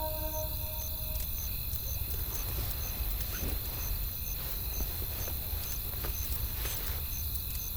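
Wood fire crackling with scattered small pops over a low wind rumble, with a faint high chirp repeating about twice a second. A held music note dies away about a second in.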